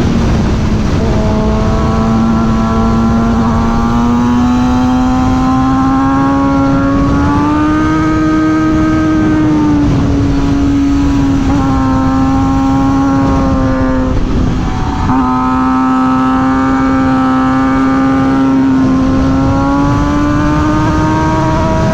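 Suzuki GSX-R 600's inline-four engine running at steady cruising revs on the move. Its pitch drifts gently up and down, breaks briefly about fifteen seconds in and climbs near the end, over a rush of wind noise.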